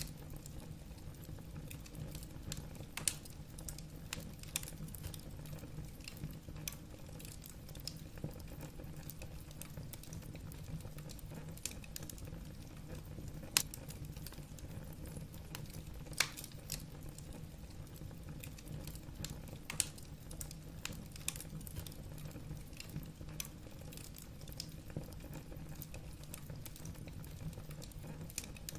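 Wood fire burning in a fireplace: a steady low rumble of the flames with irregular crackles and pops of the burning logs, a few of them sharper and louder.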